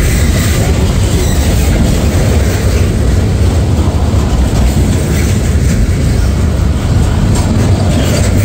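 Freight train cars rolling past on the rails, a steady loud rolling noise of wheels on track with no breaks.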